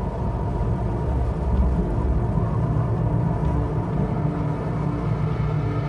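Low, steady rumbling of an approaching thunderstorm and wind, swelling slightly a couple of seconds in.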